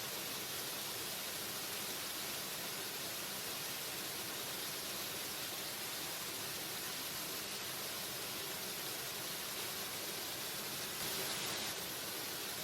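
Waterfall: a steady, even rush of falling water, swelling briefly a little louder near the end.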